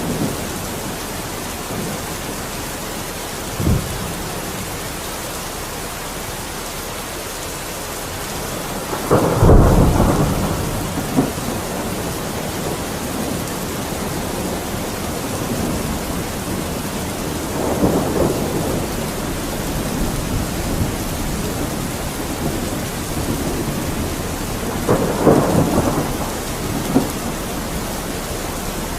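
Steady heavy rain with thunder rolling through it: a short low thud about four seconds in, the loudest rumble about nine seconds in, and further rumbles around eighteen and twenty-five seconds in.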